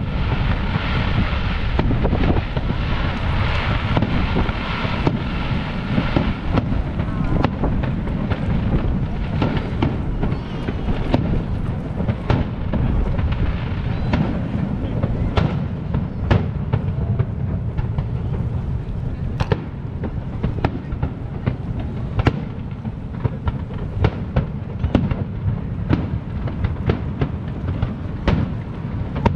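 Aerial fireworks shells bursting: a long run of sharp bangs, coming more and more often from about eight seconds in, over a steady low rumble.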